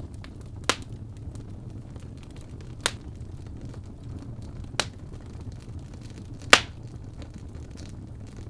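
Fire burning in a fireplace: a steady low rumble of flames with four sharp pops spaced about two seconds apart, the last pop the loudest.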